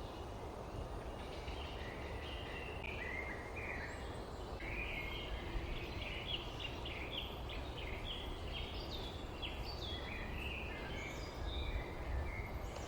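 Small songbirds chirping in quick runs of short notes, busiest in the middle stretch, over a steady low background rumble of outdoor noise.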